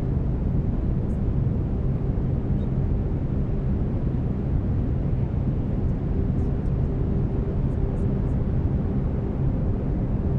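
Continuous brown noise: a steady, deep hiss weighted heavily toward the low end, with faint low steady tones of binaural beats blended underneath.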